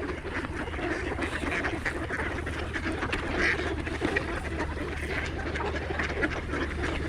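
A large flock of ducks quacking all at once in a constant, overlapping chatter as they crowd in to eat thrown seed.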